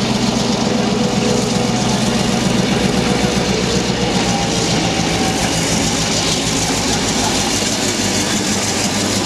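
GM/Nohab diesel locomotive's two-stroke EMD engine running steadily with a deep, even throb.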